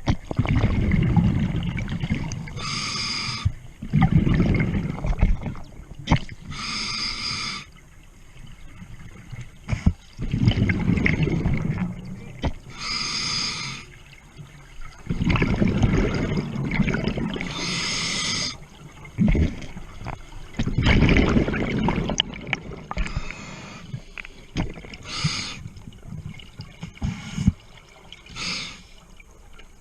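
Scuba diver breathing through a regulator underwater: a short hissing inhale, then a longer, louder gurgling rush of exhaled bubbles, repeating every few seconds.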